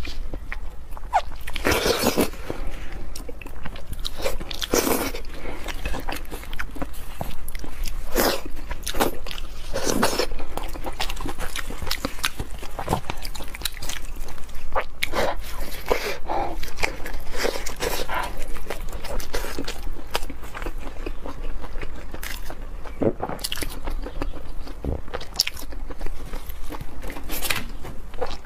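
Close-miked chewing and biting of braised pork hock skin and meat, a continuous run of short clicks and louder bites.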